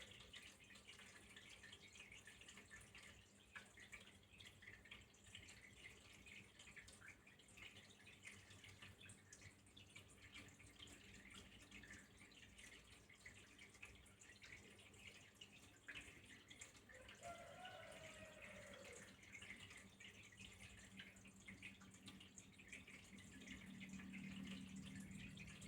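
Quiet trickling and dripping water, a continuous flow of many small splashes.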